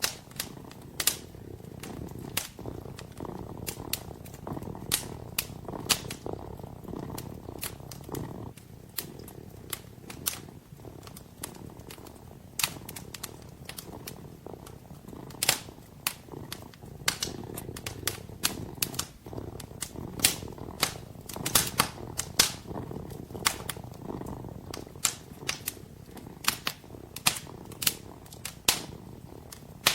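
Kitten purring steadily as a low, continuous rumble, with a wood fire crackling over it in sharp, irregular pops and snaps, several a second at times.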